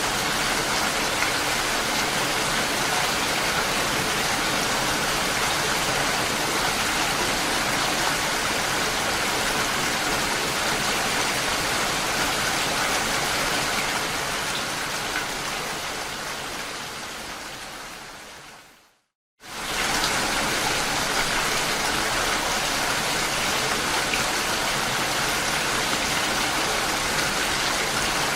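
Steady, even rain falling. It fades out over several seconds about two-thirds of the way through, drops to a brief moment of silence, then comes back at full level almost at once.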